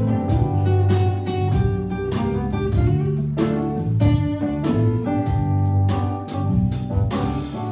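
Live band playing an instrumental passage with guitar, bass and a steady drum beat, with no vocals.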